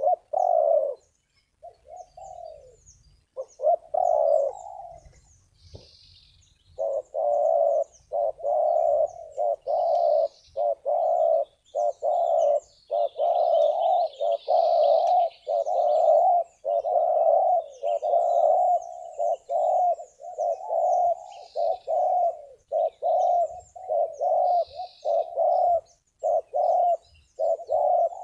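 Spotted dove cooing: a few broken coos, then from about a quarter of the way in a long close-set run of coos at roughly one and a half a second. Small birds chirp faintly above it.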